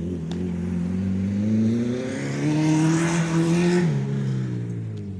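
Acura RSX four-cylinder engine accelerating hard, its pitch climbing steadily for about four seconds and then dropping suddenly near the end.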